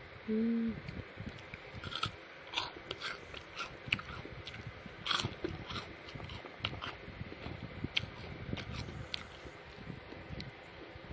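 Close-up biting and chewing of crunchy food, a long run of irregular sharp crunches. A short, steady hummed tone comes just before them, near the start.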